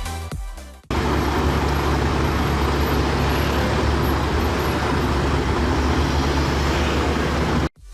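Music for about the first second, then an abrupt cut to a motor vehicle's engine running steadily under heavy traffic-like noise with a low hum, which stops suddenly just before the end.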